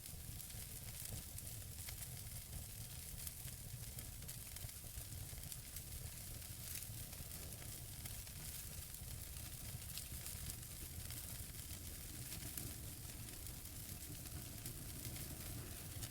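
Wood fire burning in a fireplace: a steady hiss with many small crackles and pops from the burning logs.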